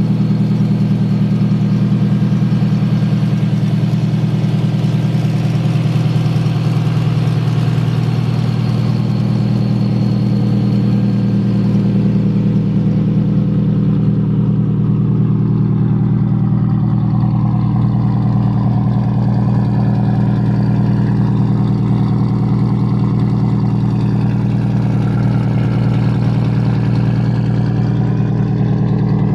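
The RB-swapped Nissan S13's inline-six engine idling steadily and loudly at an even pitch.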